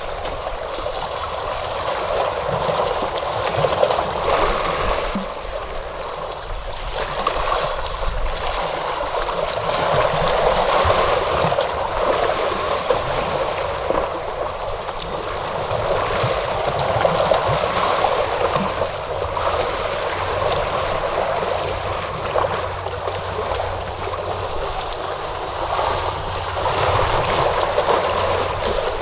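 Ocean surf washing onto a shore: a continuous rushing of water that swells and eases every several seconds as waves come in.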